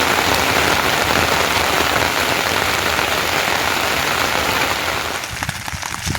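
Heavy rain falling steadily. About five seconds in the downpour suddenly thins, leaving separate drips and taps.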